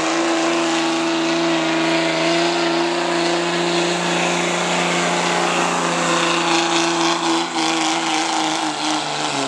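Turbocharged diesel pickup truck engine held at high revs under full load while pulling the sled, with a steady pitch that wavers slightly near the end.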